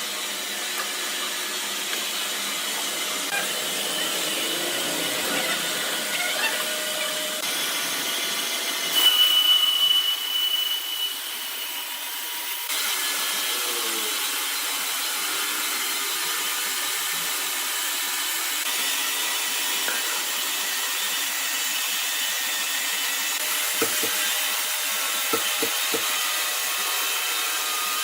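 Sawmill machinery running with a saw cutting through timber, a steady high mechanical noise. About nine seconds in, a louder high-pitched whine from the blade lasts about two seconds. A few light knocks come near the end.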